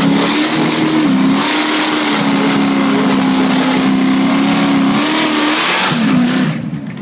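Naturally aspirated Fox-body Ford Mustang drag car doing a burnout: the engine is held at high revs while the rear tyres spin. The revs dip briefly about a second in, hold steady until about five and a half seconds, rise once more in a short rev, then the engine lets off near the end.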